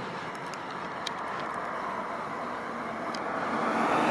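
Steady rumble of passing road traffic, swelling louder near the end as a vehicle comes close.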